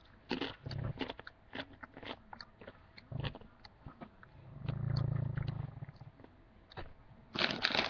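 A crunchy corn chip being chewed with the mouth closed: a run of crisp crunches, then a low hum from the eater about four and a half seconds in. A louder burst of crackling starts near the end.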